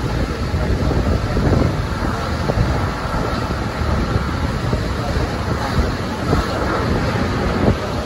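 Steady running rumble of a 12 series passenger coach rolling along the rails, with wind noise on the microphone.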